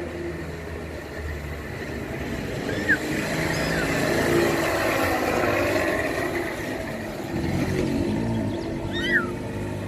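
Street traffic: a steady noise of cars that swells as one passes by in the middle. A few short high chirps break through about three seconds in and again near the end.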